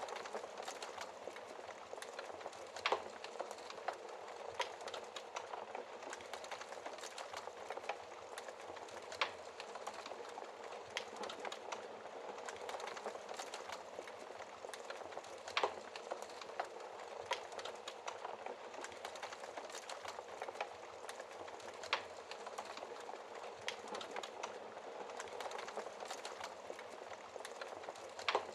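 Wood fire crackling steadily in a fireplace, a dense run of small crackles with a few louder, sharper pops every several seconds.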